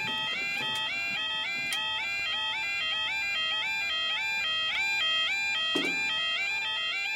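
Level crossing audible warning alarm sounding continuously: an electronic two-tone yelping alarm whose tones step up in pitch over and over, with several units overlapping slightly out of step.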